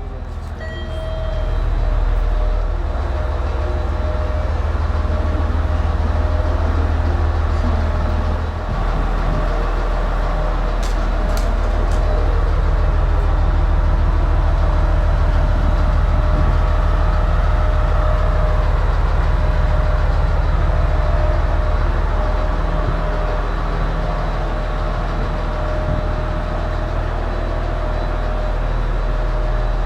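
Train running, with a steady low rumble and a thin steady whine above it. It builds up in the first couple of seconds and gives a couple of sharp clicks about eleven seconds in.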